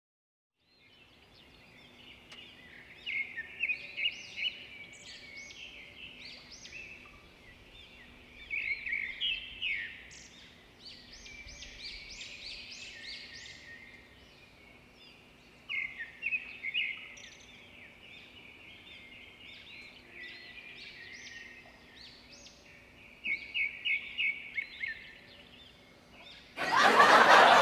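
Small birds chirping in several bouts of quick, high trills over a faint steady hum. A loud burst of noise cuts in near the end.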